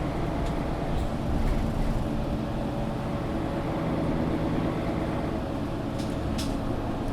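Cabin sound of a Mercedes-Benz O530 Citaro G articulated bus: steady diesel engine drone and rumble, with a few short sharp rattles about a second in and again near the end.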